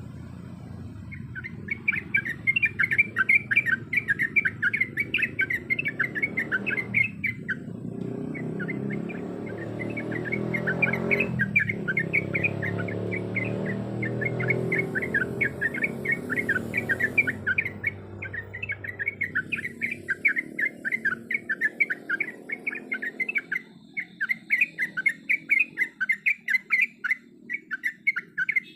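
Yellow-vented bulbul chirping in a fast, continuous run of short calls, about six a second, with brief pauses about seven and twelve seconds in. A low rumble underneath fades out past the middle.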